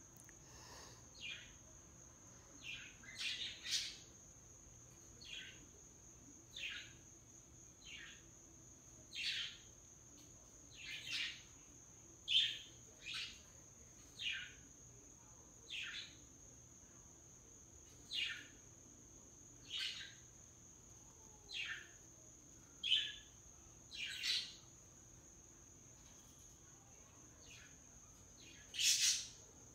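Yellow-naped Amazon parrot giving short chirps, each sliding down in pitch, one every second or two, with a louder pair near the end.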